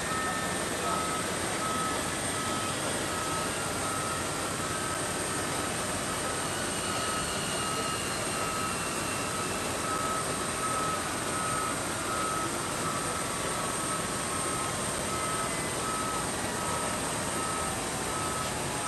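A vehicle's reversing alarm beeping at an even, quick pace over a constant rush of engine noise; the beeping stops near the end.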